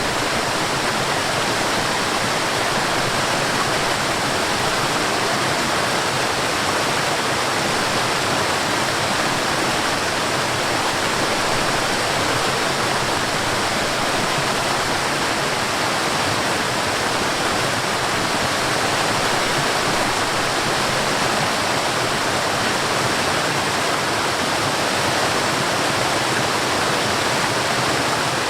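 Mountain stream rushing and splashing over rocks and falls: a steady, even rush of water that does not change.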